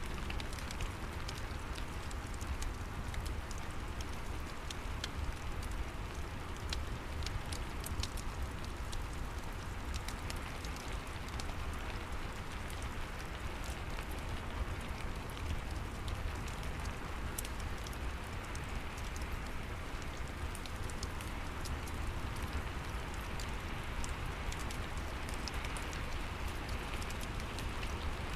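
Steady rain with scattered sharp crackles of a wood fire in a fireplace, over a low rumble.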